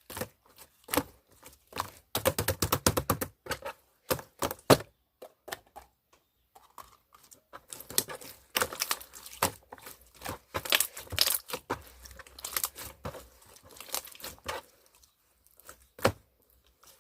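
Jelly-textured slime being squeezed and worked by hand, giving irregular clusters of crackling and popping clicks with brief pauses between handfuls.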